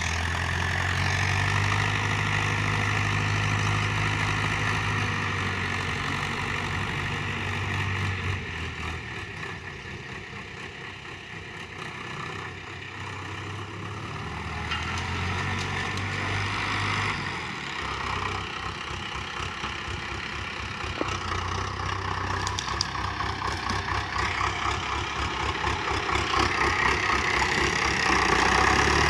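Preet tractor's diesel engine running, its speed and load rising and falling: quieter about a third of the way in, pulsing more plainly in the middle, and louder toward the end.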